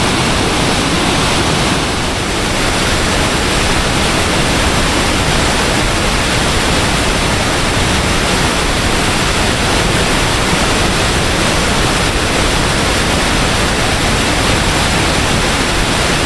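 Waterfall pouring: a loud, steady rush of falling water, dipping slightly about two seconds in.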